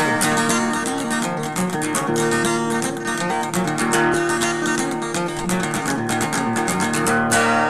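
Acoustic guitar playing an instrumental passage of quick picked notes, with a hard strummed chord near the end.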